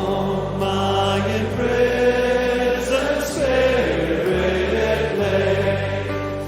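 Hymn sung by voices with organ-like accompaniment: held bass notes moving to a new pitch every second or two under the sung melody.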